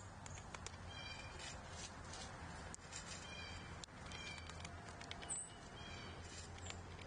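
A bird at a feeder giving several short, harsh calls in bouts about a second or two apart, with faint scattered ticks and a low steady hum beneath.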